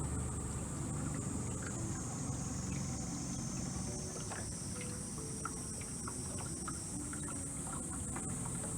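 Cicadas droning steadily in a high band, over the low hum of the tour boat's motor, which eases a little after the first second or so. Small scattered clicks and knocks.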